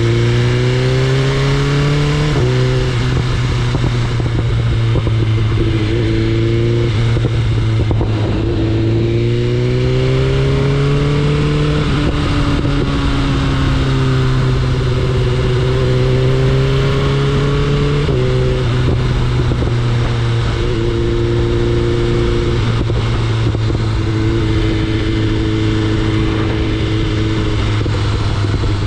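BMW S1000RR's inline-four engine pulling through the gears: the pitch climbs and drops back at each upshift twice in the first several seconds, climbs again, then holds fairly steady at a cruise with another gear change past the midpoint. A steady rush of wind and road noise runs under it.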